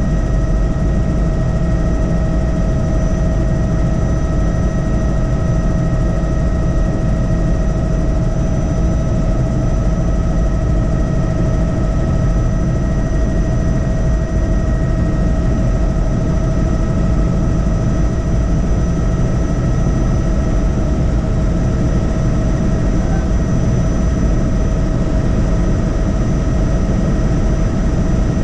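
Tour helicopter in flight: a steady engine and rotor drone with a constant high whine over it.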